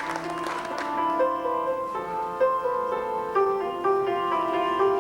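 Piano music playing a slow melody over a few lower sustained notes, with applause dying away in the first second.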